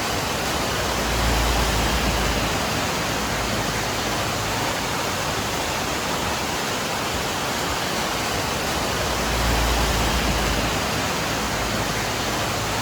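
Steady, even rushing hiss like falling water or heavy rain, with a low rumble swelling briefly about a second in and again at about nine seconds.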